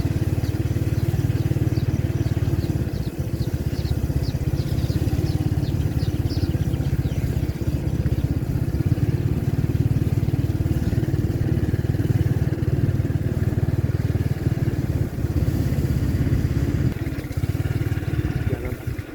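A small engine running steadily, a continuous low hum. A short run of faint high chirps comes about three to six seconds in.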